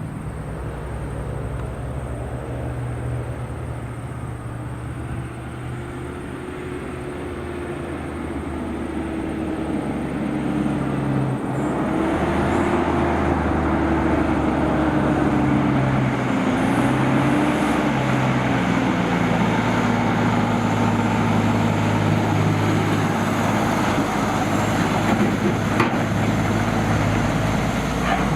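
Heavy truck's diesel engine running as it approaches, growing louder about ten seconds in, its engine note rising and falling.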